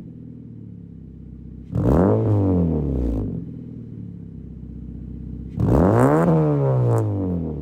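2012 Honda Civic 1.8-litre four-cylinder idling through an aftermarket exhaust and revved twice in free rev, each rev climbing and falling back to idle. A few sharp pops come from the exhaust as the second rev drops.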